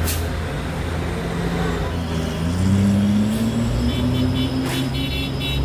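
Heavy truck diesel engine running in low gear, its pitch rising about two and a half seconds in as it revs up. From about four seconds in, a quick chiming tune starts over it.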